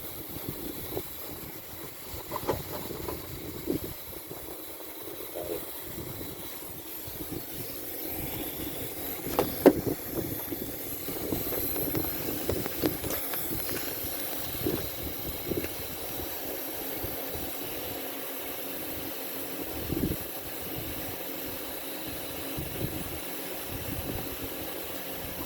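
Vehicle engine idling steadily with a constant hiss, and a few scattered clicks and knocks, one sharper about ten seconds in.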